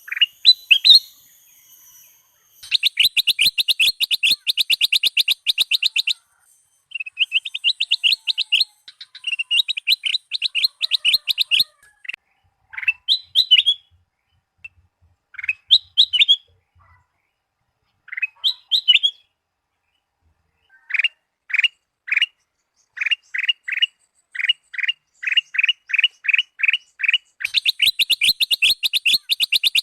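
Kutilang emas singing: fast trilled phrases of rapidly repeated notes, a few short rising whistled calls in the middle, then a slower run of clipped notes, about three a second, before another fast trill near the end.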